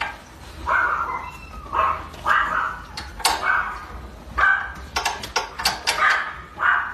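A pet animal giving about eight short, high calls in quick succession, a dog's yips or a cat's meows.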